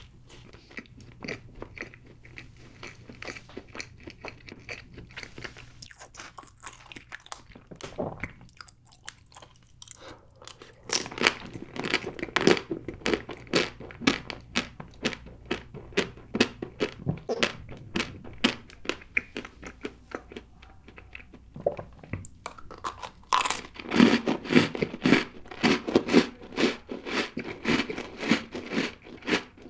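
Close-miked chewing of a mouthful of chocolate layer cake: a steady run of moist, clicky mouth sounds that grow louder about eleven seconds in and again a few seconds before the end.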